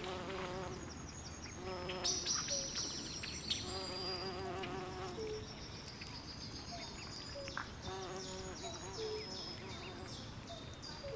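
Night swamp chorus: frogs calling in short pulsing trills every second or two, and insects chirping in quick high-pitched runs, over a steady low hiss.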